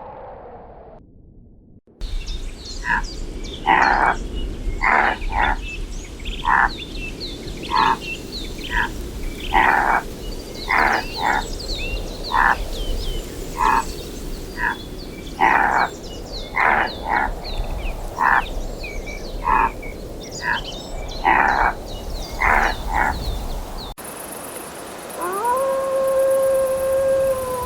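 An animal giving short calls over and over, roughly one a second, with small birds chirping above them. Near the end it cuts to a long, steady howl-like call.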